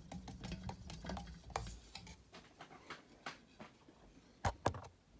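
Hunter Leighton ceiling fan: a low motor hum that stops about two seconds in, with scattered light clicks and ticks throughout and two louder clicks close together near the end.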